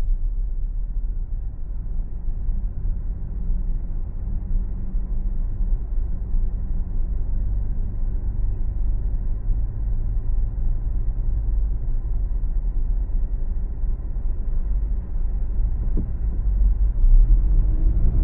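Steady low rumble of a car driving on a city road: tyre and engine noise picked up by the dashcam.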